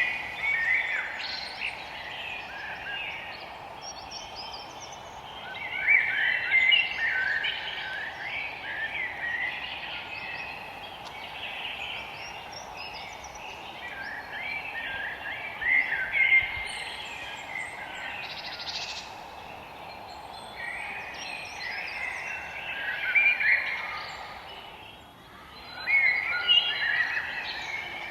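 Forest birdsong: a songbird repeats a short, busy song phrase every few seconds over a steady background hiss.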